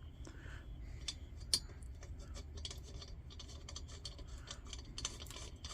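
Faint scratching and small clicks of metal lantern parts being handled and threaded together on a vintage Coleman lantern, with one sharper click about a second and a half in.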